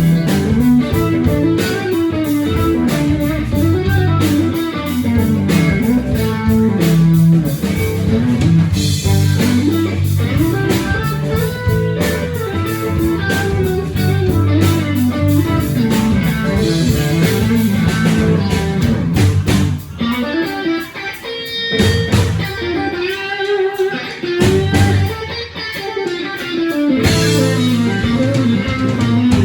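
Live blues-rock band playing an instrumental break led by electric guitar, over bass and drums. Past the middle the low end drops back for several seconds, leaving mostly the guitar line. The full band comes back in near the end.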